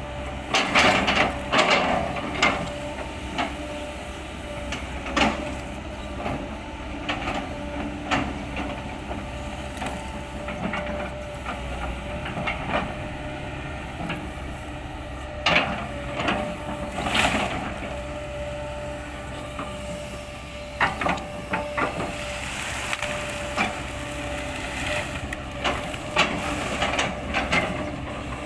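Kobelco excavator running steadily with a thin whine, while irregular sharp cracks and knocks of splitting wood come as its bucket chops up felled oil palm trunks.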